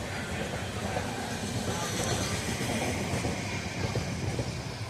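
Indian Railways passenger train running on the rails: a steady rumble with a few faint clicks.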